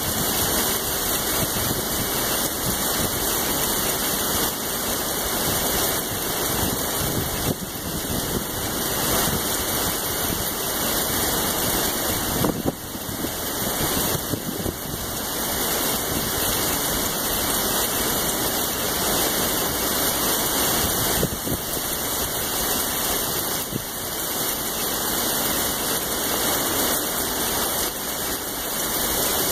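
Heavy rain pouring steadily in a severe storm, an even rushing hiss with no breaks.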